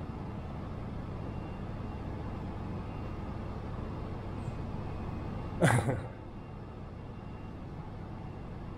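Steady background noise with no clear source, broken a little past halfway by one brief loud thump that sweeps quickly downward in pitch.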